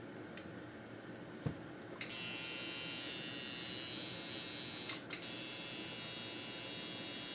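Tattoo machine buzzing steadily and high-pitched once the foot switch is pressed, about two seconds in. The buzz cuts out for a moment about five seconds in as the foot switch is clicked again, then starts straight back up.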